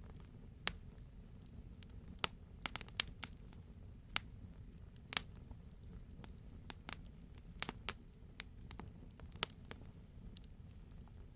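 Wood campfire crackling: irregular sharp pops from the burning logs, about a dozen of them, some in quick clusters, over a steady low rumble.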